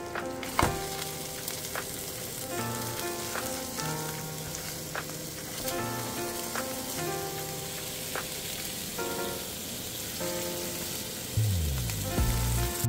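Food frying with a steady sizzling hiss, under background music with a repeating melody and bass line.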